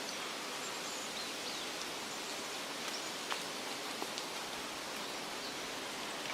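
Steady rustle of wind through leafy trees, with a few faint, short bird chirps high above it and a couple of light clicks near the middle.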